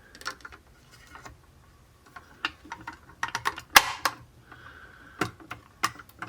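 Scattered light clicks and taps of a diecast model car's hood being slid in at the back and snapped down onto its two plastic tabs. The sharpest click comes a little under four seconds in.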